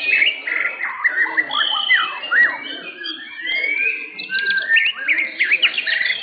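White-rumped shamas (murai batu) singing in a songbird contest: a dense stream of varied whistles and quick rising and falling notes.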